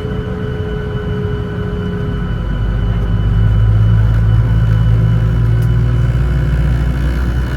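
Boeing 737-900ER cabin sound while taxiing: a steady low rumble and whir from the CFM56-7B jet engines, which grows louder for a few seconds in the middle.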